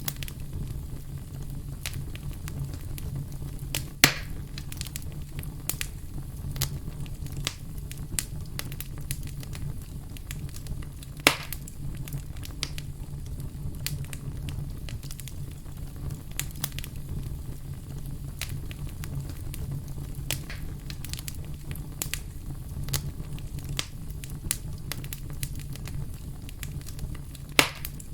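Wood fire burning in a fireplace: a steady low rumble of flame with scattered crackles and three louder pops.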